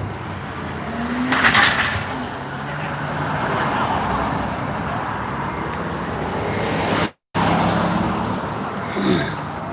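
A motor vehicle engine running as it drives, with road and wind noise. The sound cuts out for a moment about seven seconds in.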